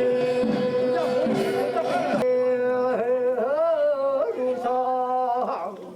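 Korean traditional field song (deul-sori) performance: singing voices sliding over a steady held note. A bright hissing sound in the first two seconds cuts off sharply.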